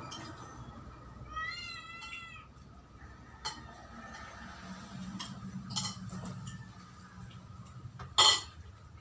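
A cat meows once, about a second in, a wavering call; a few light clicks follow, and near the end comes one sharp, loud clatter like something knocked against a dish or hard surface.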